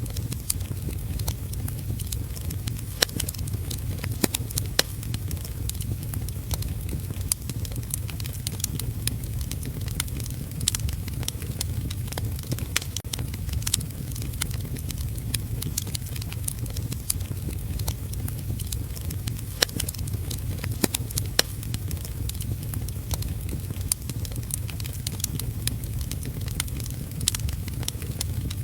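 Wood fire crackling in a fireplace, with frequent irregular sharp pops and snaps over a steady low rumble, layered with heavy rain.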